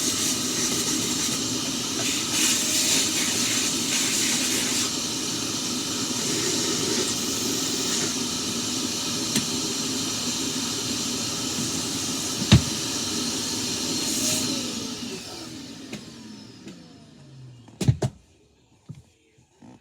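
Vacuum cleaner running steadily, then switched off about 14 seconds in, its motor whine falling in pitch as it winds down. A sharp click in the middle and a couple of knocks near the end.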